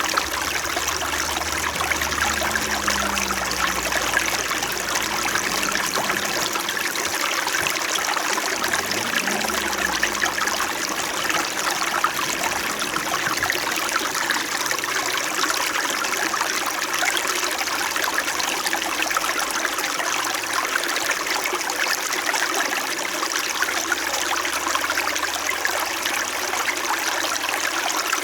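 Small mountain stream flowing and babbling steadily over stones.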